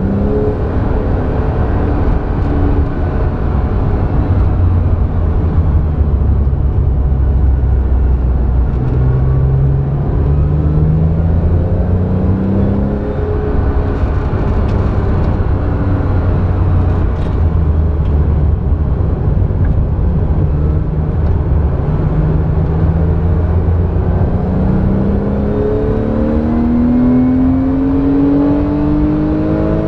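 Porsche 911 flat-six engine heard from inside the cabin while lapping a race track, over heavy low road and tyre rumble. The engine note climbs in long pulls under acceleration, once about a third of the way in and again in a longer pull near the end.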